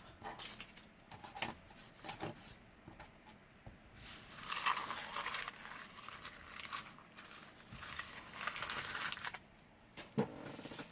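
Paper scraps being gathered up and handled on a craft table: rustling and crinkling paper with scattered light taps, in two longer stretches of rustling partway through.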